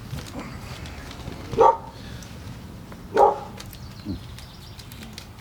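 Dog barking twice, about a second and a half apart.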